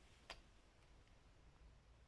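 Near silence: faint room tone, with a single short click about a third of a second in.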